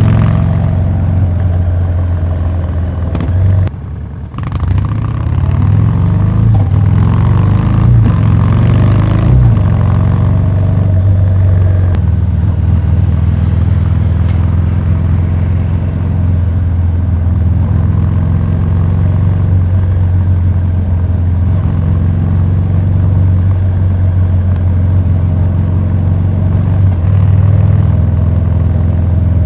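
Harley-Davidson Street 750's V-twin through a Vance & Hines slip-on exhaust, its pitch rising and falling over the first ten seconds with a short drop in level about four seconds in, then running at a steady note.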